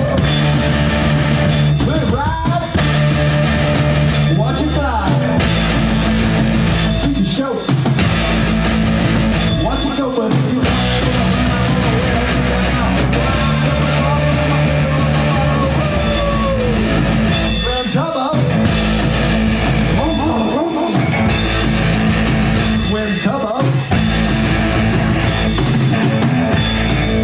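A live rock band playing loudly, with guitar and a drum kit over steady low bass notes.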